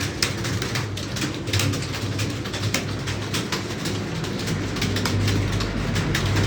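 Keyboard keys clicking in quick, irregular typing, over a low, uneven drone.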